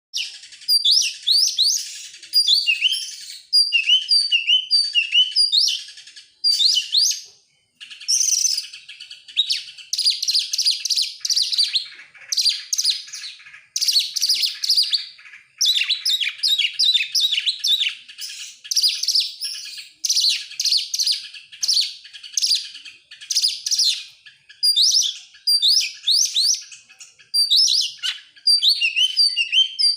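Oriental magpie-robin (kacer) singing, a long run of varied, rapid whistled and chattering phrases that follow each other with only brief pauses.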